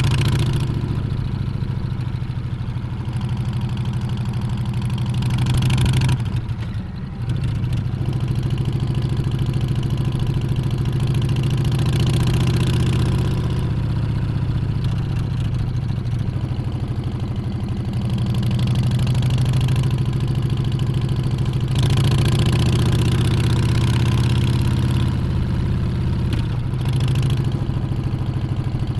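Harley-Davidson Street Bob's Milwaukee-Eight 114 V-twin running steadily under way, with a brief drop in level about six seconds in, as when the throttle is rolled off for a gear change.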